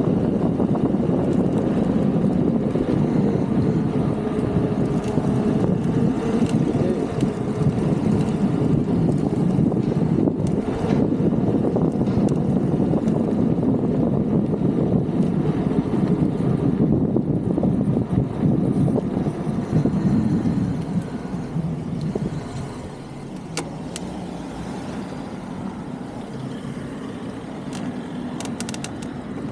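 Steady rumble of urban traffic and road noise heard while riding through city streets, with vehicles passing. It gets noticeably quieter about two-thirds of the way through.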